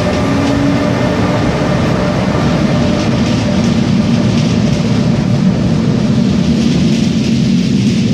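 ÖBB Railjet passenger train rolling past close by: a steady loud rumble of wheels on rails, with a fading electric whine at the start and a few faint clicks as the coaches go by.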